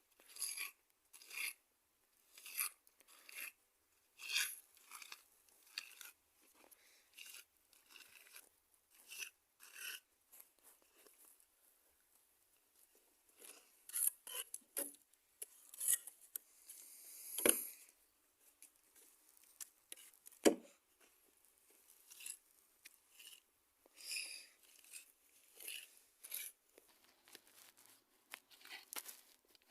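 Irregular short scraping strokes, a few every couple of seconds, with two sharper knocks in the middle.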